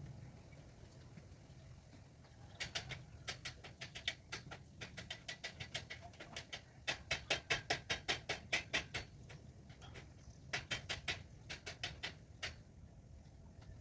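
Greater coucal chick giving short, harsh begging calls in rapid runs of about five a second, in three bouts, the middle one the loudest.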